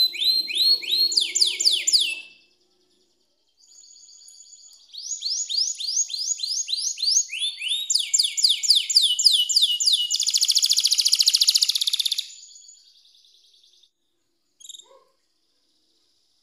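Canary singing: runs of rapid, repeated sweeping notes and trills. There is a short pause about two and a half seconds in, then a fast buzzing trill that fades out, and a single short chirp near the end. It is a canary song recording of the kind played as a lure to coax a silent canary into singing.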